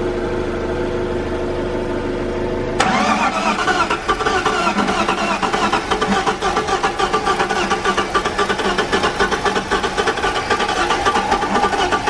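Freshly swapped engine in an E46 BMW 330i being cranked by the starter with a steady whir, then firing suddenly about three seconds in and running loud and rough and uneven. It is a hard first start after the swap, typical of air still in the fuel system.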